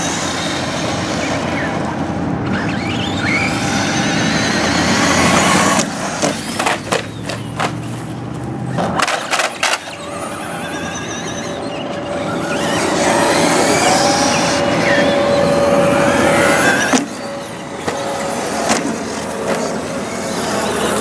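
Electric 1/10-scale RC stadium truck running: its 15-turn brushed motor and drivetrain whine, rising and falling in pitch as it speeds up and slows, over a steady hiss. A cluster of sharp knocks comes between about six and ten seconds in.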